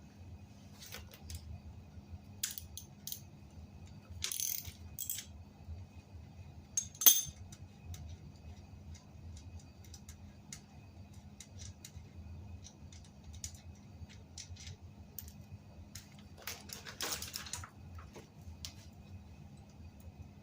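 Small metal tools and parts being handled during bicycle tire work: scattered light clinks and clicks, a sharp metallic click about seven seconds in, and two short stretches of rustling handling, over a faint steady low hum.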